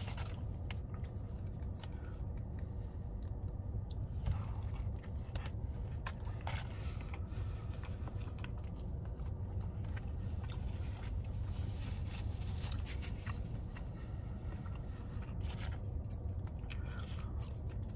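A man chewing and biting into a soft roast beef and cheddar sandwich close to the microphone: wet mouth sounds with occasional sharper clicks, over a steady low hum.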